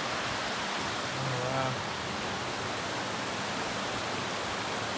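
River water rushing steadily, an even hiss with no letup.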